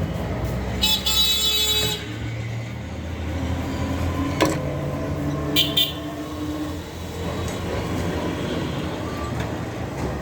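Steady traffic rumble with vehicle horns: one longer toot about a second in and two quick toots just before the middle.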